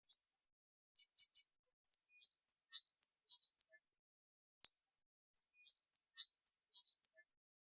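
Kemade bird calling: sharp, high-pitched chips and quick upward-sweeping notes. About a second in, a fast run of three clipped chips is followed by a string of downslurred 'cit' notes.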